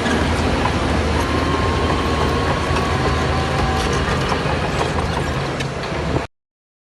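Crawler bulldozer at work: its diesel engine running with the steel tracks clanking and rattling. The sound cuts off abruptly about six seconds in.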